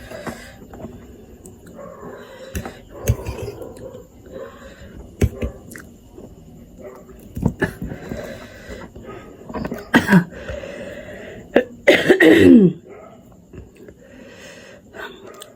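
A person coughing and clearing her throat, a few short sharp coughs spread out, then a louder voiced sound falling in pitch about twelve seconds in. The coughing comes from her mouth burning after eating very spicy instant noodles.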